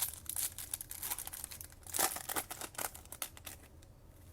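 A foil trading-card pack wrapper crinkling as it is torn open, with a quick run of crackles that is loudest about two seconds in.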